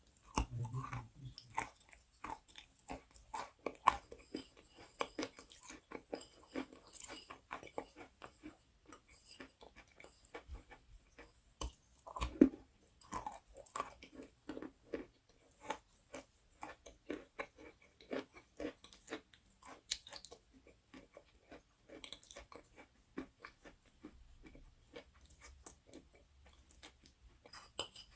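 Close-up chewing of crunchy food: a steady run of crisp, irregular crunches and bites, with a louder crunch about twelve seconds in.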